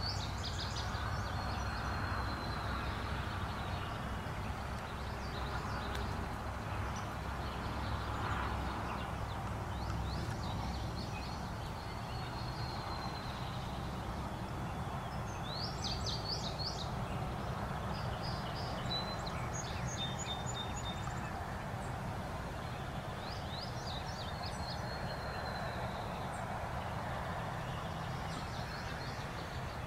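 Songbirds singing short, high phrases several times over a steady background of outdoor noise and low rumble.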